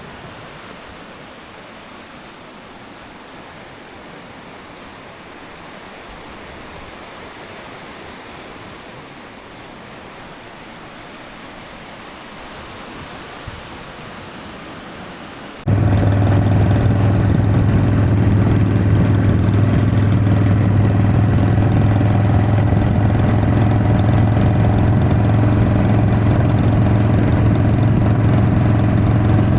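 A steady hiss, then, a little past halfway, a sudden switch to a Harley-Davidson Sportster's V-twin engine running loud and steady.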